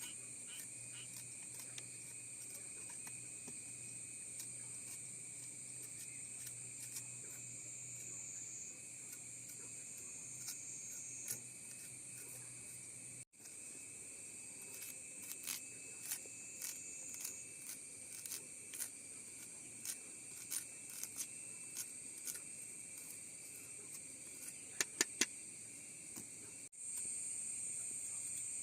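Steady high-pitched chorus of insects, crickets or cicadas, with many scattered small clicks and snaps over it and a quick cluster of sharper clicks near the end. The sound breaks off abruptly twice, once midway and once near the end.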